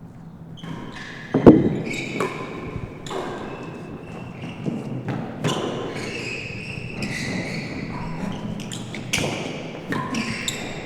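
Real tennis rally in an indoor court: a series of knocks as the ball is struck by rackets and rebounds off the walls and floor, the loudest about one and a half seconds in, with short high squeaks between the strokes.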